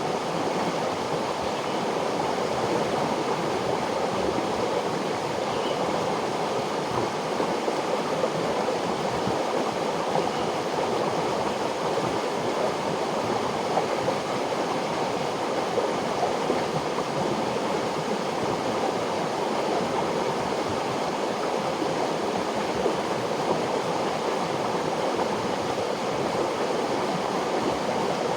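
River water flowing, a steady rush with no breaks.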